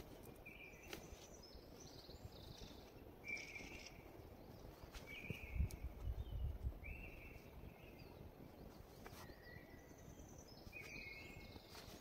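Faint bird calls: short high notes repeated about once a second, with higher chirps among them. Low thuds and rustling around halfway through as a jacket and backpack are handled.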